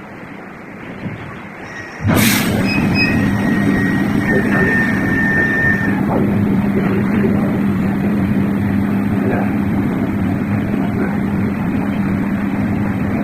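Hood-type commercial dishwasher starting up about two seconds in, then running steadily with a constant low hum and a noisy wash.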